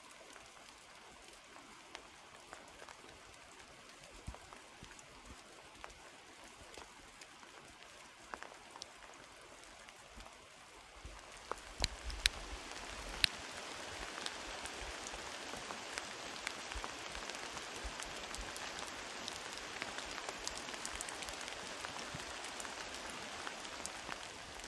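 Steady rain falling on the forest with scattered close drops pattering. The rain gets louder about twelve seconds in.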